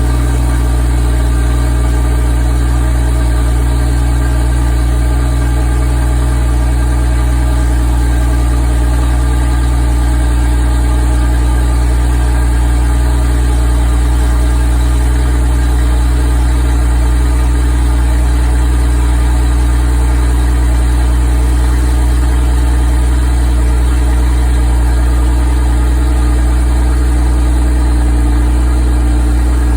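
Porsche 981 Cayman/Boxster 2.7-litre flat-six idling steadily. Its exhaust vents through a quarter-inch gap left by sliding the upper muffler connector aside, a homemade stand-in for the Porsche sport exhaust.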